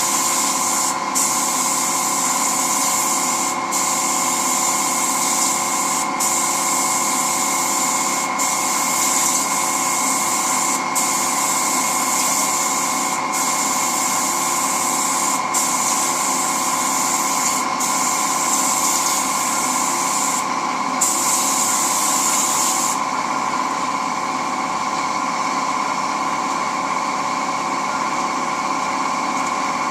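Air spray gun hissing as it lays on lacquer, in long passes with a brief break about every two seconds, stopping about three-quarters of the way through. Under it an air compressor runs with a steady hum.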